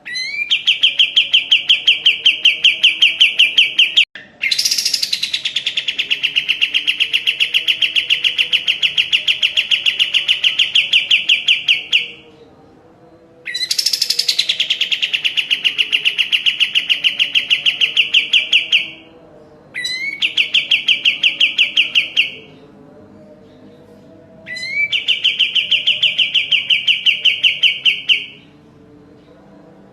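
Kapas tembak songbird singing: long phrases of rapid, evenly repeated high notes, each phrase opening with a quick sweep. Five phrases are separated by short pauses, and another starts right at the end.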